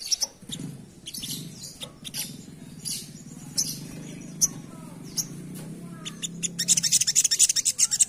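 Sogok ontong (crimson sunbird) singing a rapid, high-pitched twittering song of quick chirps. The chirps thin out in the middle and come thick and fast again near the end. A low murmur runs underneath through most of it.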